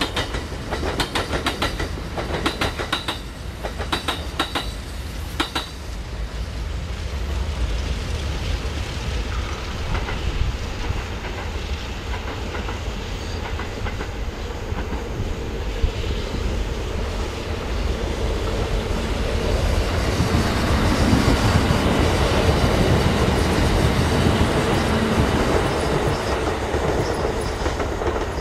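Kintetsu electric trains crossing a concrete railway viaduct. In the first few seconds the wheels clack in a quick rhythm over the rail joints as one train passes. A second train's rumble then builds from about twenty seconds in, is loudest for several seconds and eases off near the end.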